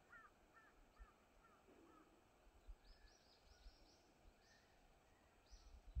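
Near silence with faint bird calls: a string of about five short falling chirps in the first two seconds, then a quick run of high thin notes about three seconds in and one more near the end.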